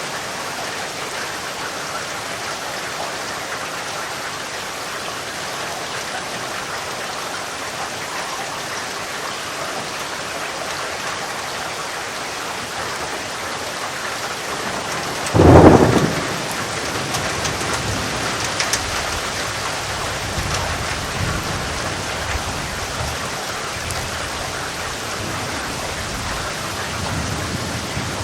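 Steady rain falling. About halfway through, a sharp thunderclap cracks, the loudest sound here, and rolls on as a low rumble for several seconds before the rain alone is left.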